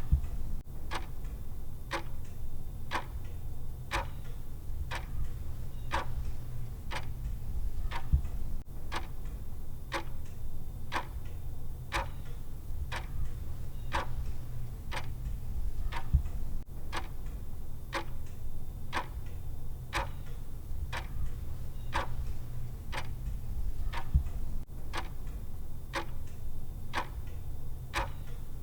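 Clock ticking sound of a countdown timer, one sharp tick about every second, over a steady low hum. A brief low thump comes roughly every eight seconds.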